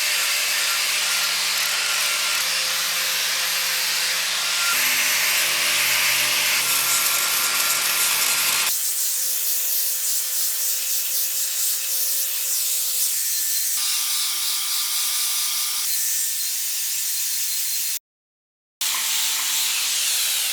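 Angle grinder grinding rust off a steel cart wheel: a steady grinding noise that changes abruptly a couple of times as takes are cut together, with a short break in the sound a few seconds before the end.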